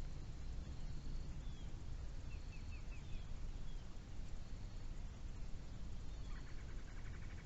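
Songbirds calling outdoors: short high chirps that drop in pitch, a quick run of four notes, and a buzzy trill that starts about six seconds in, over a steady low rumble of wind or distant ambience.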